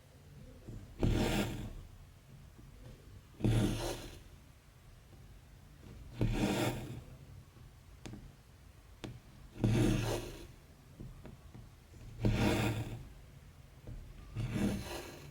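Thread pulled through cross stitch fabric, six rasping swishes, each about half a second long and coming every 2.5 to 3 seconds as stitches are drawn tight.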